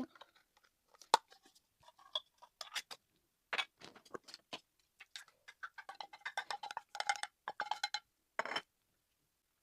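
A string of light clicks and taps from tableware and food containers being handled, with a few short ringing clinks near the end.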